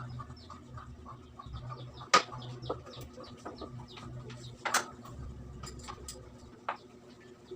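Birds chirping in many short high calls over a steady low hum, with two sharp knocks about two seconds and nearly five seconds in, and a lighter one near the end.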